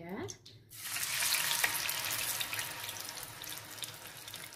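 Ground chilli spice paste hitting hot cooking oil in a frying pan. It starts sizzling suddenly about a second in and then slowly dies down.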